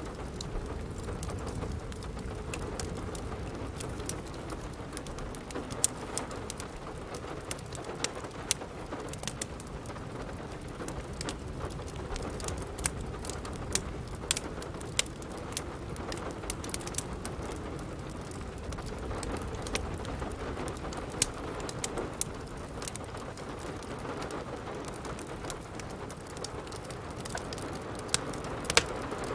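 Steady rain with a wood fire crackling: an even hiss, with sharp pops and snaps at irregular moments.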